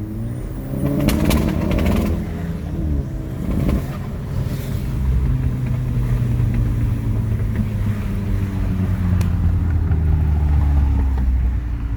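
Car engine running, revved a few times in the first seconds and then settling to a steady run.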